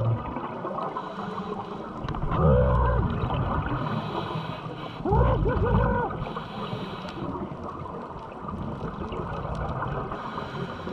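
Steady rush of water and wind noise, with two short wordless cries from a person about two and five seconds in.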